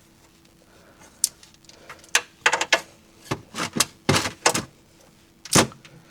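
Hand tools knocking and clicking against metal: about a dozen short, sharp, irregular strikes, the loudest near the end, over a faint steady hum.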